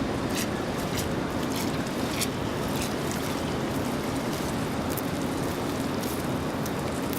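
Steady rain, with scattered drops ticking sharply and unevenly.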